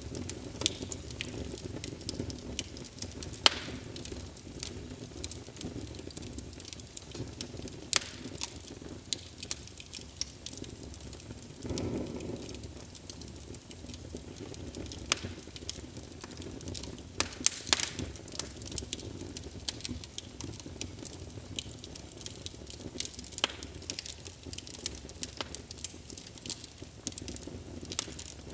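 Wood fire burning in a fireplace, crackling with irregular sharp pops and snaps over a low steady rush of flame, with a brief louder rush about twelve seconds in.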